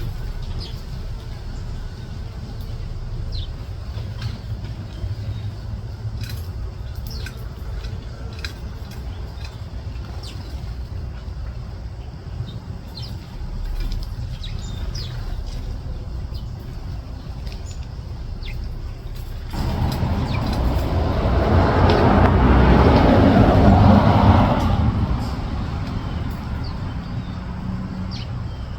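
Small birds chirping now and then over a steady low outdoor rumble. About twenty seconds in, a much louder rushing noise comes in suddenly, swells, and fades over about six seconds.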